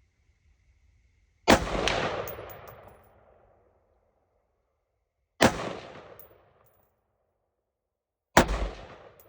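Three rifle shots, about four and then three seconds apart, each sharp crack followed by a long echoing tail.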